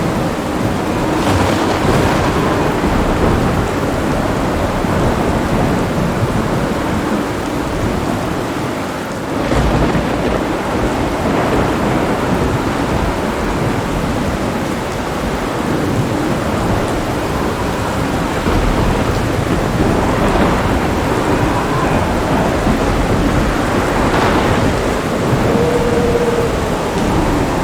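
Heavy rain falling steadily with thunder rumbling through it; a louder thunder rumble swells about nine and a half seconds in.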